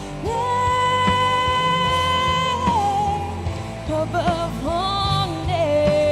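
Live contemporary worship music: a band plays under a lead voice that holds one long note for about two and a half seconds, then moves into short wavering runs.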